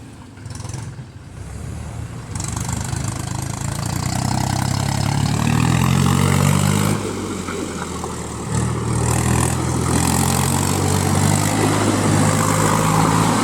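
Mahindra tractor's diesel engine running, its revs climbing over the first few seconds, easing briefly about seven seconds in, then running hard again.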